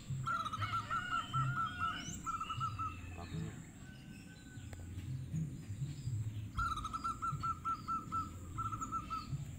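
Zebra dove (perkutut) cooing in two phrases, each a quick run of evenly repeated notes broken by a short gap. The first phrase comes near the start, the second about two-thirds of the way in.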